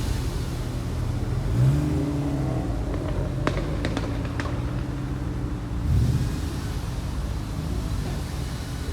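Car engines accelerating past, the engine pitch rising just under two seconds in and a second surge of throttle about six seconds in, with a few sharp clicks in between.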